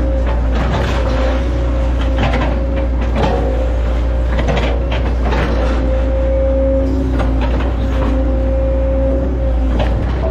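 Hitachi Zaxis 110 excavator running under load, its diesel engine droning steadily beneath a high hydraulic whine that swells and eases. Irregular sharp knocks and cracks come through it.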